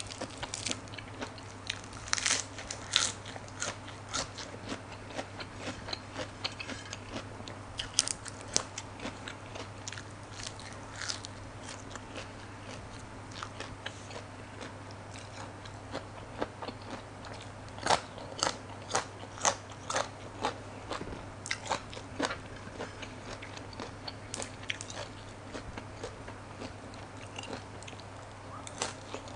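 Close-miked eating sounds: crisp crunching bites and chewing of raw vegetables and lettuce-wrapped blood cockle. There is a quick run of crunches about eighteen seconds in, over a steady low hum.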